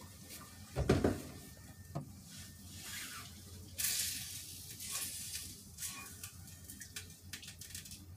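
Kitchen cooking sounds: a heavy thump about a second in, then a sudden burst of sizzling about four seconds in that dies away, with light clicks and clatter of utensils after it.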